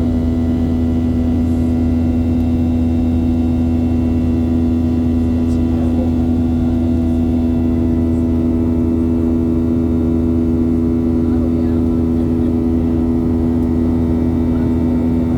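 Aircraft engines droning steadily, heard from inside the cabin in flight: a strong hum at one pitch over a deep rumble, with no change in level.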